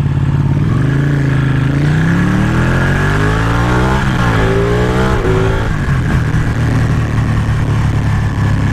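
Ducati Panigale 1199's L-twin engine pulling away and revving up. It shifts up about four seconds in and again about a second later, then settles to a steady run, with wind noise.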